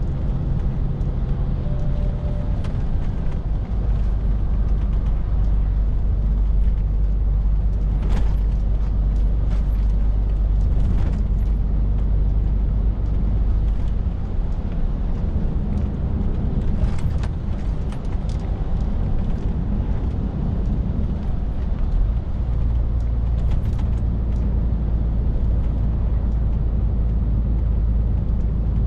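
Scania R450 lorry driving along: a steady low engine drone with road noise. A few short clicks or knocks come through now and then.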